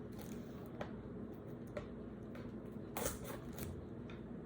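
Hands handling a sealed trading-card box and its packaging: a few scattered light clicks and crinkles, busiest about three seconds in, over a low steady hum.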